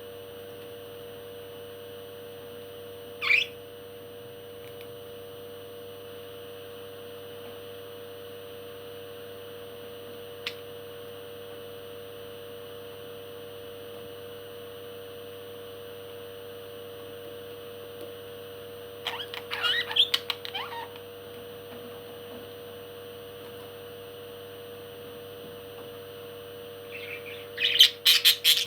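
Parrot calling: one short call about three seconds in, a quick run of calls around twenty seconds in, and a louder run near the end, over a steady background hum.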